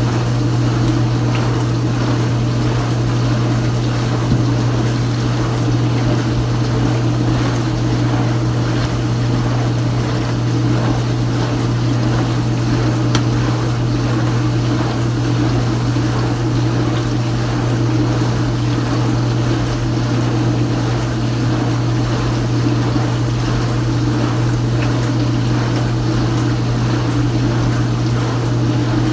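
Kenmore Ultra Wash 3 dishwasher running its hot rinse: the wash pump motor hums steadily while water sprays inside the tub.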